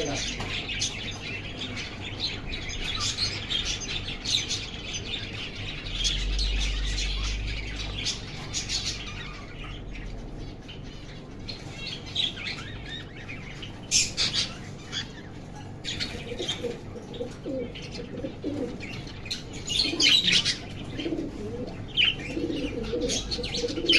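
Lovebirds and cockatiels chirping, many short high calls overlapping one another, with lower calls joining in during the last third.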